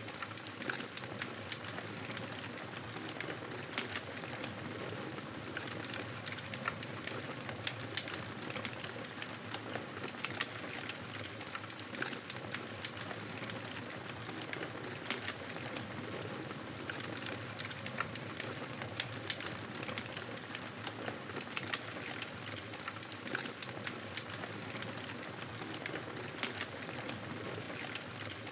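Wood fire crackling in a fireplace: a steady soft hiss with frequent small, irregular pops and snaps.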